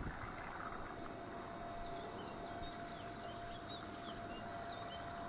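Quiet lakeside ambience: small birds chirping faintly in short high notes, over a thin steady tone that begins about a second in and holds to the end.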